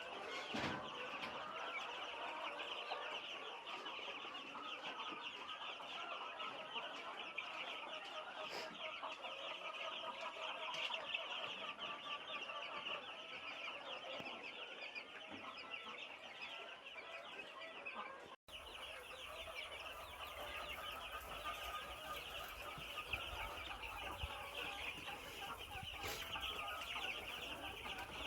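Flock of twelve-day-old broiler chicks chirping continuously, many short calls overlapping into a steady chorus. About two-thirds of the way in the sound drops out for an instant, and a low hum runs underneath afterwards.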